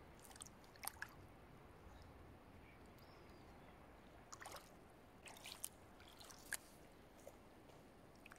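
Near silence with a low background hush and a handful of faint, short water splashes and drips scattered through.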